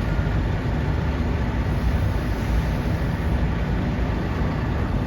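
Semi truck's diesel engine running steadily, mostly low-pitched, as the tractor-trailer sets about reversing to a loading dock.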